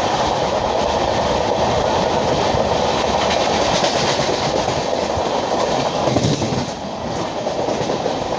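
LHB passenger coach running along the track: a steady, loud rumble and rush of wheels on rails.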